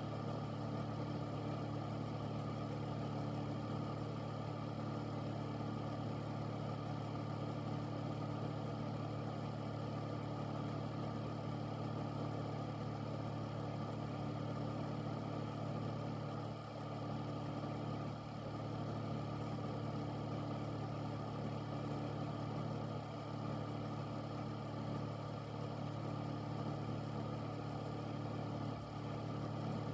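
Air filter fan running steadily: a constant low hum made of a few steady tones, with an even rush of moving air above it.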